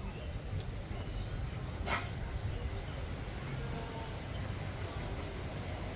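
Aviary ambience: faint short bird chirps over a steady high insect-like buzz and a low background rumble, with one sharp click about two seconds in.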